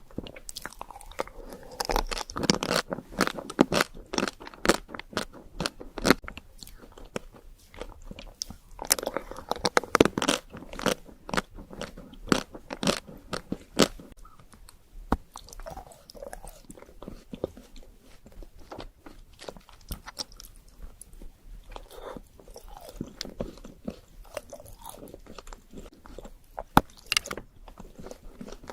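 Close-miked biting and chewing of chocolate desserts, with irregular crunches and crackles in clusters.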